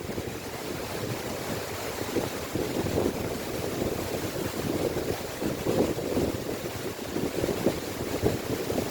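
Strong wind gusting and buffeting the microphone in irregular surges.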